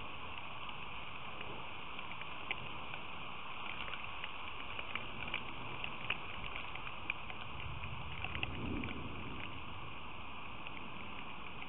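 Steady rain, with many scattered sharp drop ticks close to the microphone and a brief low rumble about eight seconds in.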